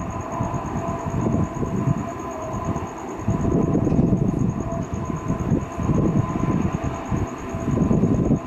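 Military jet engine ground run-up: a loud, continuous roar that surges and wavers, with a thin steady whine above the rumble.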